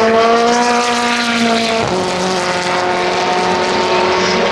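Racing car engine running at high revs. Its note drops in pitch about two seconds in, then holds steady.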